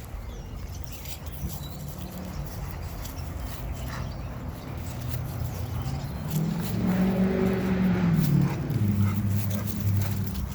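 Dog growling low and continuously, getting louder about six seconds in and dropping in pitch near the end.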